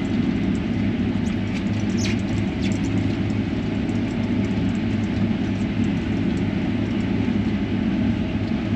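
Combine harvester running while cutting, a steady drone heard from inside the cab, with a few faint ticks about two to three seconds in.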